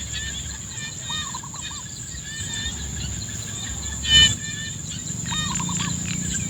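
Countryside ambience: a steady high-pitched insect drone with repeated short bird chirps and calls, and one louder call about four seconds in, over a low rumble.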